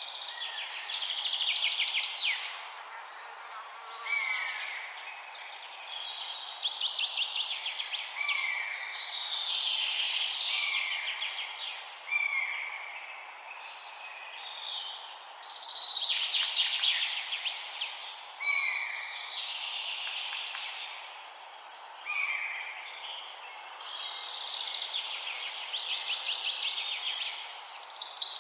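Songbirds singing: bursts of rapid, high trilling a second or two long come again and again, with short swooping notes between them, over a steady background hiss.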